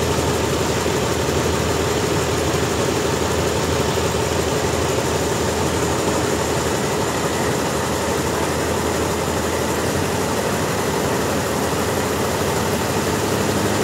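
Sawmill engine running steadily at an even speed, a continuous mechanical drone with no changes.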